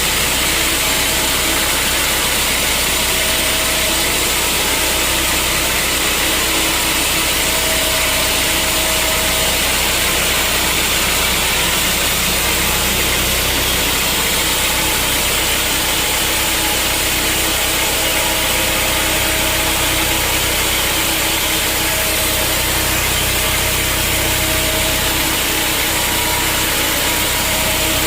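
Sawmill machinery running steadily: a loud, even mechanical noise with a low hum underneath and no break or change.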